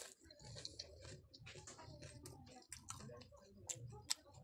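Faint, irregular clicks and soft crunches of a mouthful of pani puri being chewed with the mouth closed: the crisp fried puri shell breaking up with its potato and tamarind-water filling.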